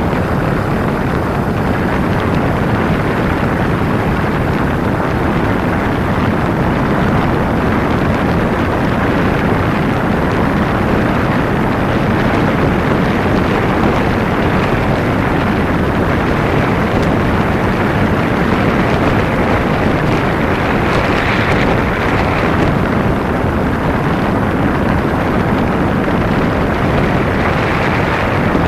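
Kawasaki Ninja 250 motorcycle under way: a steady, loud rush of wind and engine noise on the helmet camera's microphone. It swells briefly, a little louder and brighter, about two-thirds of the way through.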